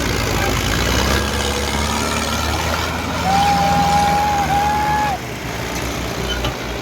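Tractor diesel engine running steadily, with a horn sounding one held note for about two seconds in the middle.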